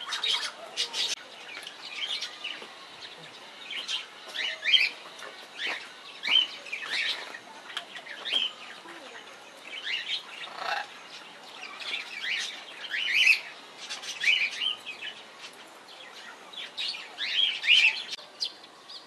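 Birds chirping: many short chirps, some louder than others, with no pause of more than a second or two.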